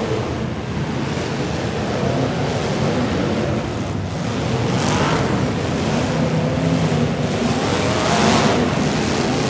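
Demolition derby car engines running loud and revving, with the pitch rising sharply about five seconds in and again near the end.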